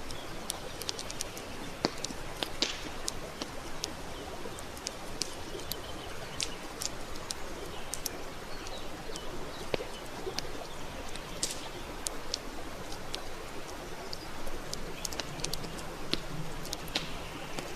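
Wood fire crackling: a steady hiss with many sharp, irregular pops and snaps. A low hum comes in for a second or two near the end.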